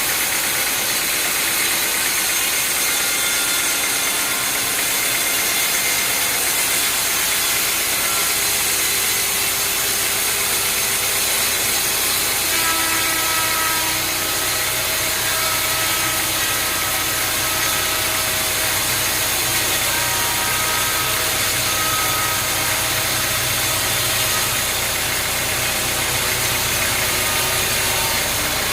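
Sawmill machinery running steadily: a continuous loud hiss, with a low engine-like hum that comes up about halfway through.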